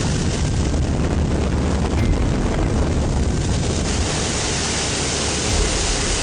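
Steady, loud rush of storm wind buffeting the microphone, heavy in the low end.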